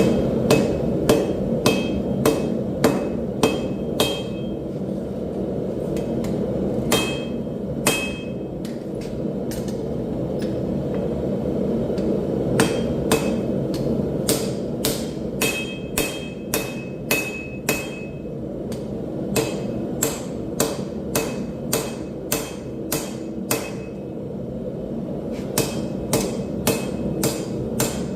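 Hand hammer striking hot steel on an anvil in steady runs of blows, about two a second, with short pauses between runs; some blows leave a brief metallic ring. A steady low roar runs underneath.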